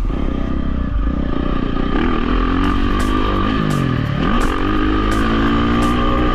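Dirt bike engine being ridden. Its revs rise, drop sharply about four seconds in, then climb again as the rider throttles through the track.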